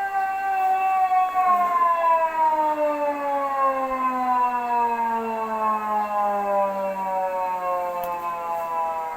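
Earthquake-drill warning siren sounding, its pitch slowly falling as it winds down.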